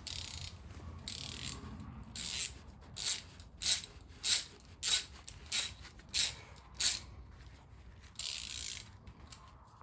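Socket ratchet wrench clicking through about eight quick strokes, one every half second or so, on an engine bearing cap bolt. A longer scraping rasp follows near the end.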